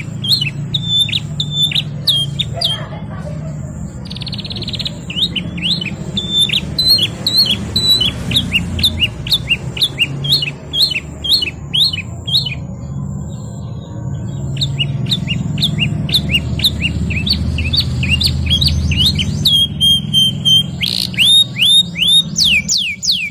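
Domestic canary singing: fast runs of repeated sharp chirps and rolling trills, with one held whistle and a short break about two-thirds through. A steady low hum runs underneath.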